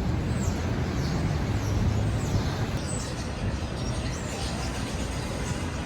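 Outdoor ambience: a steady low rumble with faint, short, high bird chirps in the first few seconds.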